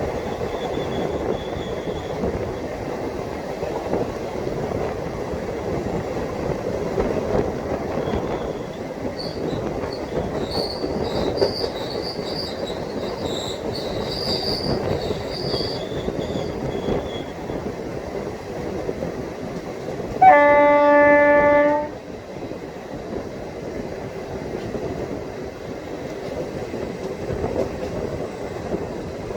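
ICF passenger coaches running on the track with a steady rumble, with high wheel squeal in the middle of the stretch. About two-thirds of the way through, the WCAM2 electric locomotive sounds one horn blast about a second and a half long, the loudest sound here.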